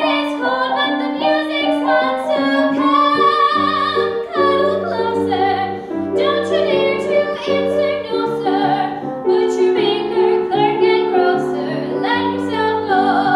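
A woman singing with vibrato in a trained, classical-leaning style over instrumental accompaniment. She holds a long note near the end.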